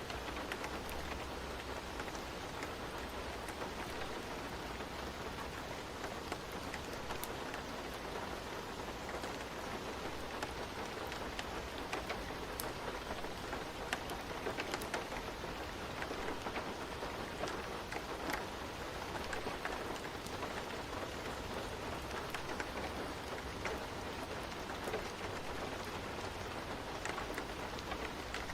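Steady rain ambience with a low rumble beneath, dotted with scattered sharp crackles from a fireplace.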